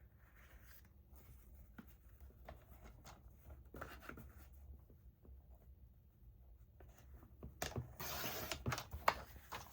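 Paper being cut on a paper trimmer: faint rustling and handling of the paper, then near the end the blade drawn through it in one rasping stroke of about a second, followed by a sharp click.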